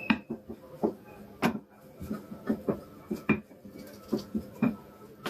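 Kitchen clatter: dishes and utensils knocking and clinking irregularly, about a dozen short knocks, a few with a brief ring.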